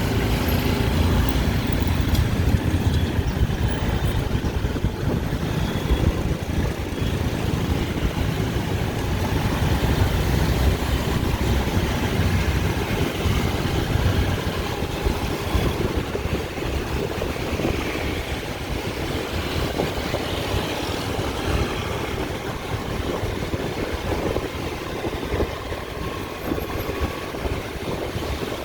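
Dense rush-hour street traffic: motorbike, car and tuk-tuk engines running and idling together as a steady low rumble.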